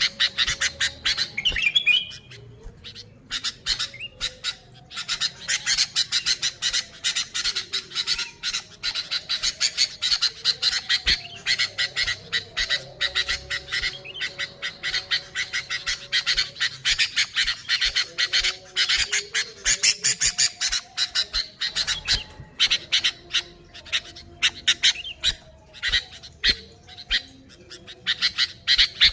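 Sooty-headed bulbul calling continuously: rapid runs of short chattering notes, with louder, fuller calls in the first couple of seconds and again at the very end.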